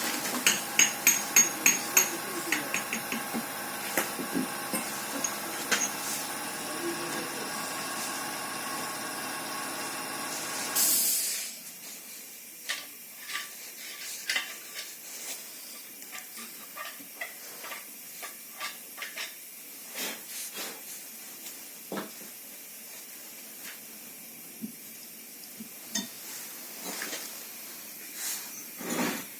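Workshop sounds of metal tools and parts: a quick run of sharp metallic taps over a steady hiss, then a short louder hiss about eleven seconds in, after which the hiss stops and only scattered clinks and knocks of parts being handled remain.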